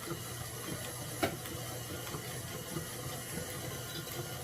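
Stand mixer running steadily on a low speed, churning cultured sour cream into butter, with a single light click about a second in.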